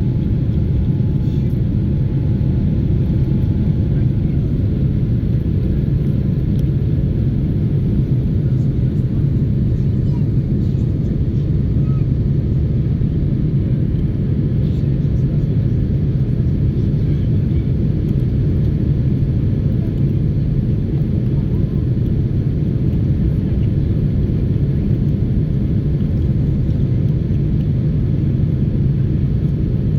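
Jet airliner's engines heard from inside the cabin as a steady low rumble.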